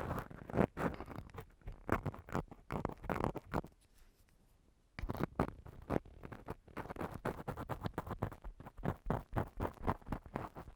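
Ear-cleaning tool scratching and scraping on a microphone's ear in quick, irregular strokes, stopping for about a second near the middle before starting again.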